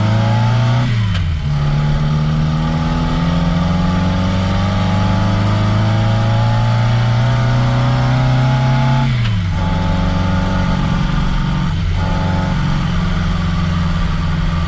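1969 Reliant Regal's four-cylinder engine pulling the car up through the gears. The engine note rises steadily, falls sharply at an upshift about a second in, climbs slowly again, and falls at a second upshift around nine seconds, then runs fairly steadily.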